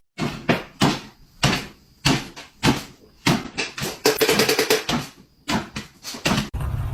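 A quick series of sharp knocks and bangs, two or three a second, with a fast rattling run of clicks about four seconds in.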